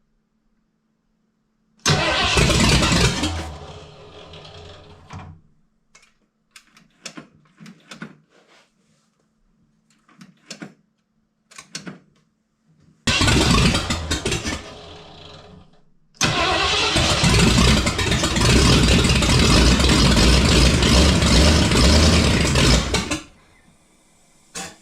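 Ford 5.8 V8 being cranked on the starter in three tries, the last about seven seconds long and cutting off suddenly. The first two tries fade away rather than stop sharply, and a few light clicks fall between them. The engine is not catching because there is no fuel in the carburettor.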